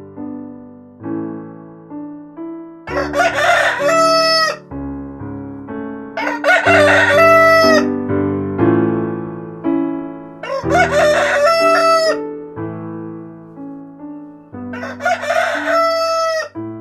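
Rooster crowing four times, about every four seconds, each crow a loud call of a second and a half or so that falls away at the end. Soft piano music plays underneath.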